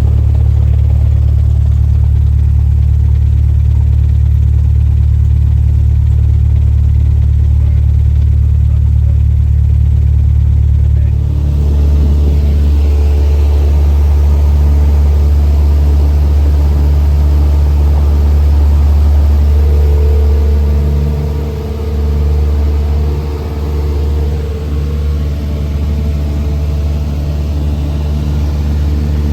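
Light airplane's piston engine and propeller droning steadily, heard from inside the cabin. About eleven seconds in the pitch mix changes and more, higher tones join the drone. The level dips briefly a little past twenty seconds.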